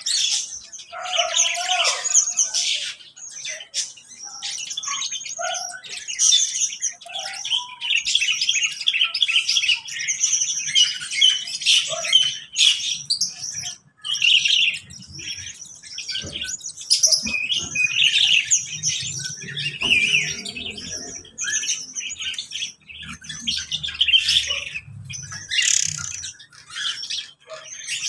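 A mixed flock of small cage birds in an aviary chirping and chattering without pause, many shrill high calls overlapping, with a few lower, gliding calls in the first several seconds.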